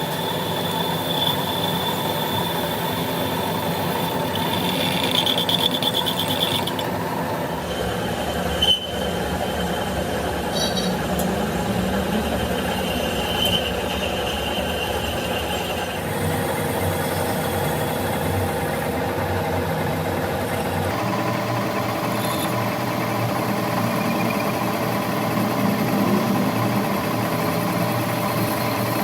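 Machine tool running steadily as it works a crankshaft, with a steady high-pitched tone over the running sound. The tone and running sound change character several times, and a single sharp click comes about a third of the way in.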